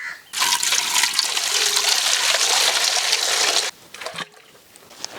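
Water pouring out in a steady rush for about three and a half seconds, starting suddenly and cutting off sharply, as the goat leg meat is washed.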